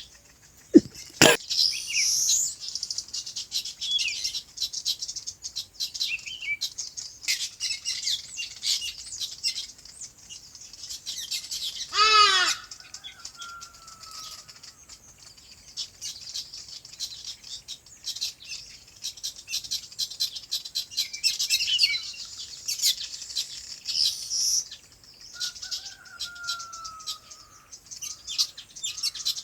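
Many small birds chirping and chattering continuously in high, rapid notes. A sharp sudden sound comes about a second in, and a single louder call with a stack of falling pitches stands out about halfway through.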